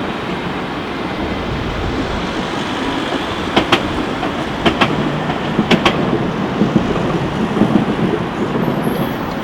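Tram running on its rails: a steady rumble with three pairs of sharp clicks about a second apart in the middle, the wheels passing over rail joints.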